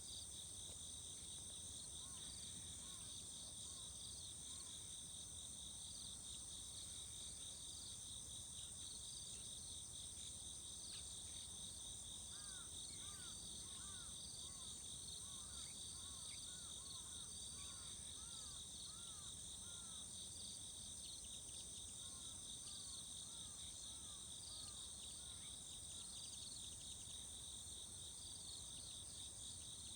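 Outdoor insect chorus of crickets or katydids: several steady, high, shrill trilling tones layered together. A bird calls in short repeated arched notes, a few early, many in a run through the middle, and a few more after. A low, even rumble lies underneath.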